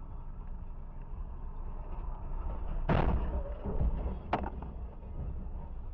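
Vehicle collision heard over steady road and engine rumble: a loud crash impact about three seconds in, then a second, shorter sharp bang about a second and a half later.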